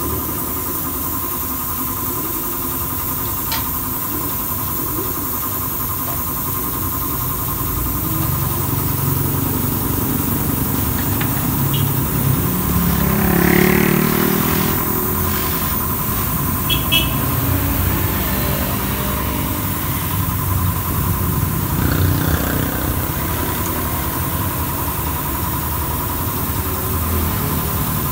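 A motor vehicle engine running steadily, with a few light clicks and a brief swell about halfway through.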